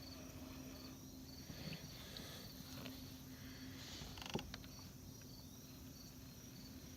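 Faint insect chirping, a high-pitched pulse repeated steadily, with one light knock about four seconds in.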